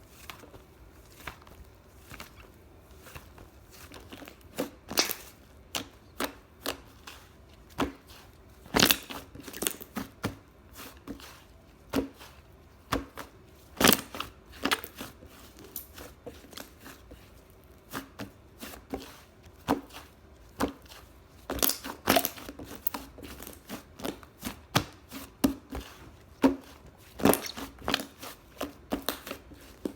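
Puffy white slime being squeezed and stretched by hand, giving irregular sharp pops and crackles, a few of them much louder.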